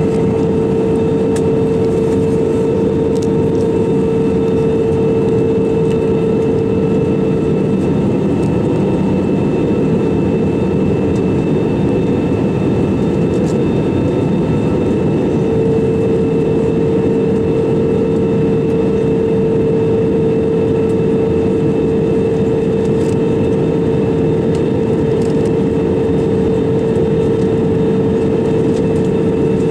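Airbus A320-200 cabin noise in flight from a window seat: a steady roar of engine and airflow with a continuous hum over it, the hum fading for a few seconds midway.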